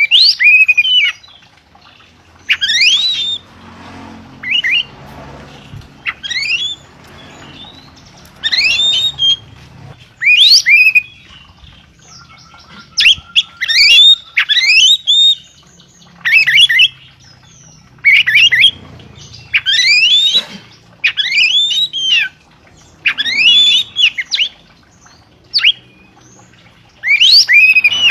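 A songbird giving loud, repeated calls: short rising whistled notes, each under a second, coming about every one to two seconds and sometimes in quick runs of two or three.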